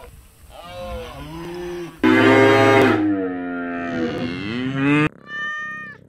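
Cattle mooing, several drawn-out calls from the herd, the loudest and longest starting about two seconds in. Just before the end the sound cuts sharply to a short, higher-pitched cat meow that falls in pitch.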